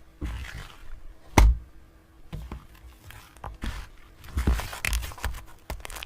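Close-up crinkling, tearing and soft crunching as a fluffy cupcake is handled, with one sharp click about a second and a half in and smaller clicks and rustles after it.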